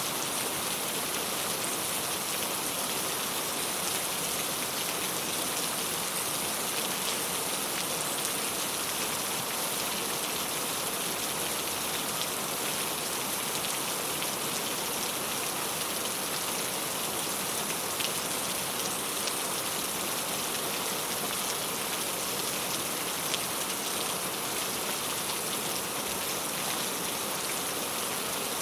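Steady rain falling on a clay-tile roof, an even patter with a couple of louder single drops past the middle.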